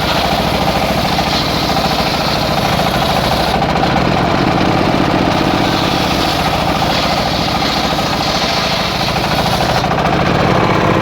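Engine of a circular sawmill running steadily at an even speed.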